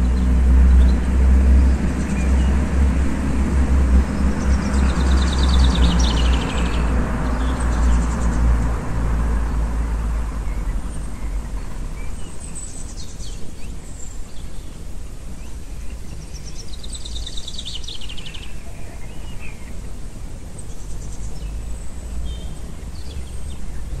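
Small birds singing rapid high trills, one burst about five seconds in and another about seventeen seconds in, over a low rumble that is strongest at first and fades away over the first ten seconds.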